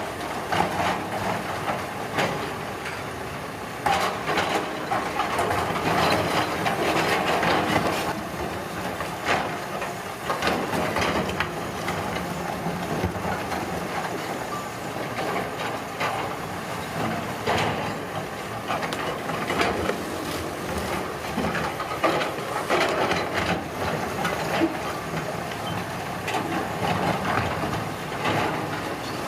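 Heavy road-construction machinery at work: a diesel engine runs steadily under repeated clanks, knocks and the crunch of rock or gravel being moved.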